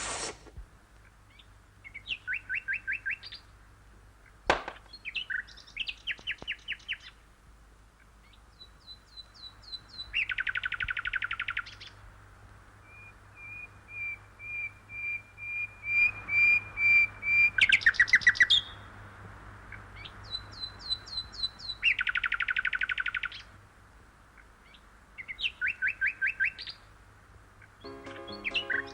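Small bird singing in repeated bursts of quick, evenly spaced chirps and trills, with short pauses between the phrases. A faint steady low hum lies underneath.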